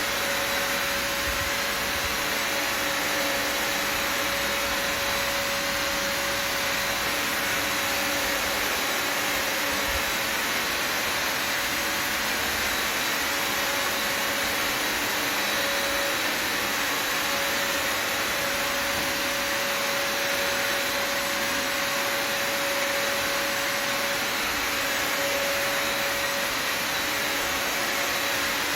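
Bissell Symphony Pet all-in-one vacuum and steam mop running steadily: an even rushing of air from the vacuum motor, with a steady mid-pitched tone that wavers slightly.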